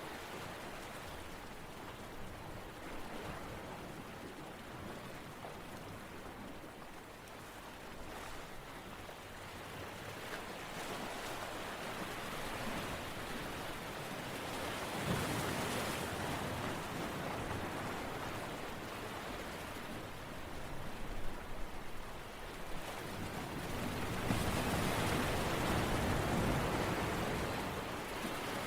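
Continuous rushing water noise that swells and eases, growing louder about halfway through and again near the end.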